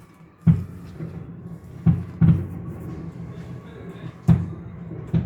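About five sharp knocks against a mixing bowl as the dry pizza-dough ingredients and oil are mixed together by hand, over a steady low hum.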